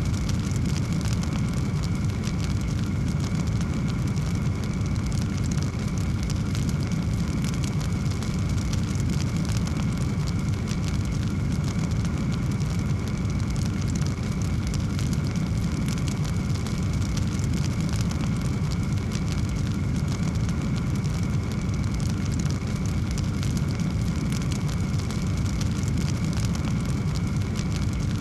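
Wood fire burning in a fireplace: a steady low rumble of flame with frequent small crackles and pops throughout.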